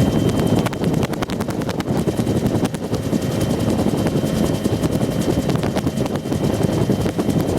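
UH-1 Huey helicopter in flight, heard from a gunner seat inside the cabin: the two-bladed main rotor's rapid chopping over the steady, loud drone of its turbine engine.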